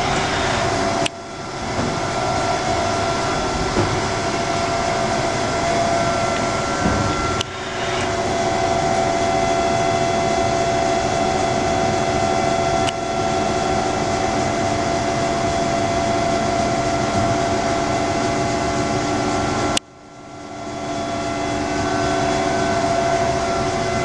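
Haas SL-30T CNC lathe running under power: a steady mechanical hum and whine with several held tones. The sound cuts out abruptly and swells back up three times.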